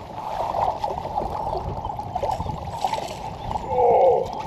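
Water splashing and sloshing around a kayak as a big freshwater drum is fought at the surface close by, with a louder surge of noise near the end.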